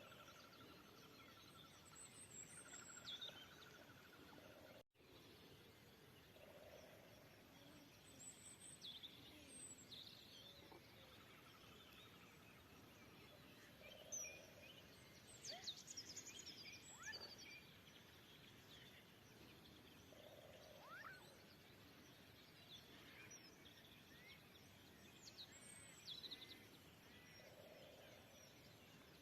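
Faint outdoor springtime ambience: scattered bird chirps and short whistles over a low steady hiss, busiest around the middle. The sound drops out completely for a split second about five seconds in.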